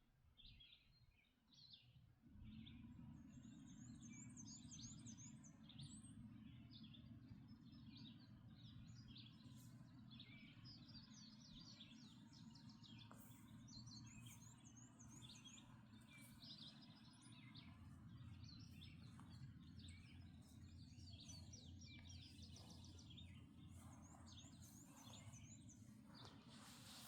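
Several songbirds singing and calling, faint, with a high, rapid trill that comes three times. Underneath, a steady low rumble sets in about two seconds in.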